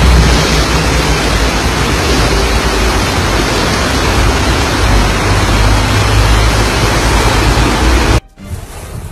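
Heavy rain pouring down in a windstorm, with wind buffeting the microphone in a low rumble. Near the end it cuts off suddenly to quieter rain and wind.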